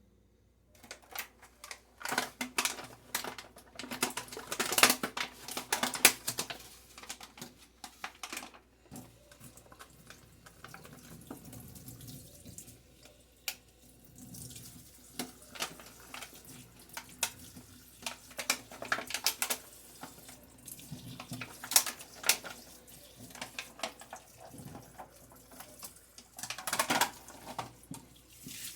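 Tap water running into a sink, with repeated knocks and clatter of items being handled and rinsed under the stream.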